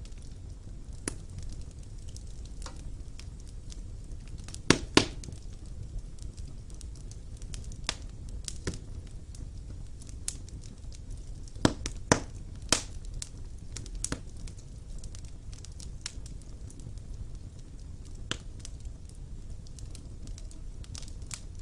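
Fire burning in a stone fireplace: a steady low rumble of flames with irregular sharp crackles and pops, a few louder double pops about five and twelve seconds in.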